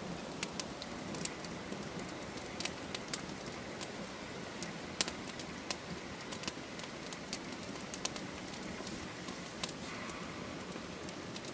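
Campfire crackling: irregular sharp pops and snaps over a steady low hiss from the burning wood.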